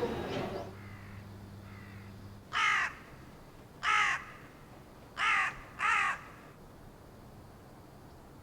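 A crow cawing: four short caws over about four seconds, the last two close together.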